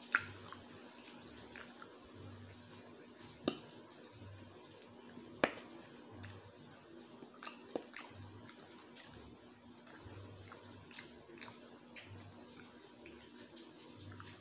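Close-miked chewing of food, with a dozen or so sharp clicks of a metal fork against the plate scattered throughout.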